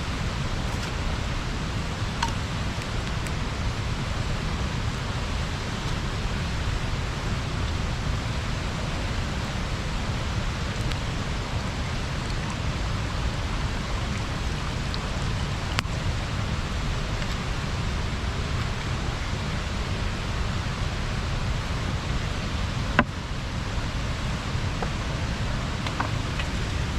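Water pouring over a small river weir: a steady rushing, with a few faint sharp clicks on top, the clearest one near the end.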